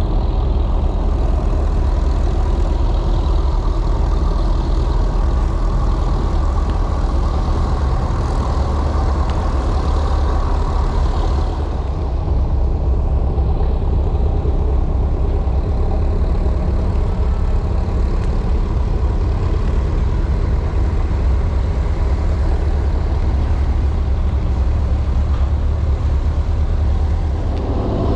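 A heavy engine running steadily with a deep, low drone; its tone shifts slightly about eleven seconds in.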